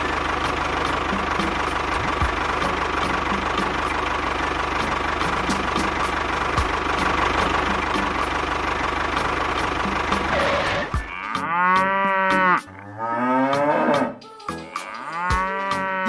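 Tractor engine running steadily, cutting off about eleven seconds in; then a cow moos three times, long drawn-out calls.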